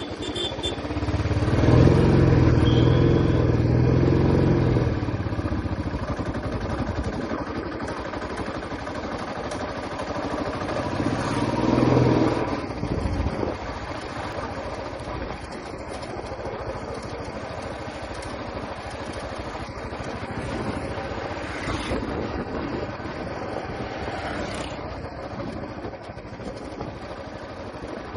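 Royal Enfield Classic 350's single-cylinder engine running at riding speed under a steady rush of wind and road noise. The engine note swells louder twice, from about two to five seconds in and again around twelve seconds.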